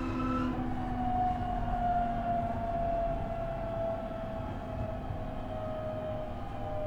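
JR East E127 series EMU heard from inside the motor car KuMoHa E127-11: the Toyo Denki GTO-VVVF inverter and MT71 traction motor whine slides slowly down in pitch over the rail rumble as the train slows. This car is known for an abnormal gear whine, an extra tone a semitone above its usual one.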